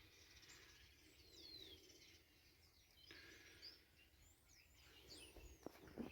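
Near silence, with faint, scattered high chirps of small birds in the background.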